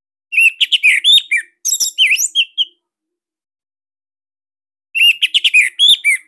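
Orange-headed thrush (anis merah) singing: two bursts of quick, tight whistled phrases with notes sweeping up and down, separated by a couple of seconds of silence.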